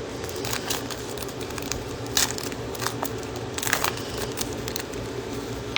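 Trading card pack wrapper crinkling and tearing, with cards being handled. A few sharper crackles stand out about two and three and a half seconds in.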